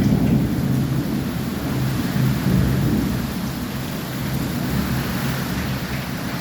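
Steady rain falling, with a heavy low rumble that is loudest over the first half and eases off toward the end.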